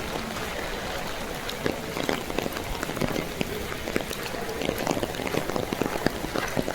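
Steady rain falling, a hiss of rain with many close drops ticking sharply, the ticks growing denser about two seconds in.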